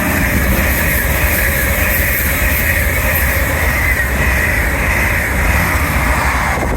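A passenger train passing close by at speed: a loud, steady rumble and rush of wheels on rail that drops away sharply near the end as the train clears.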